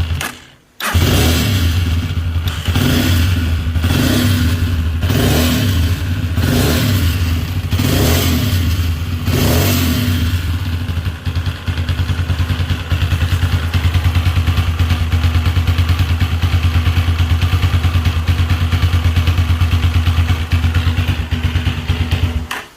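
Motorcycle engine running with the throttle blipped about every second and a half, then idling steadily for the second half. It carries a strange dragging noise, which the mechanic traces to a badly worn camshaft drive gear.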